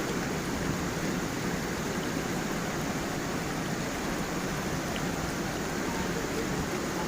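Small waterfall and stream running over stones: a steady, unbroken rush of water.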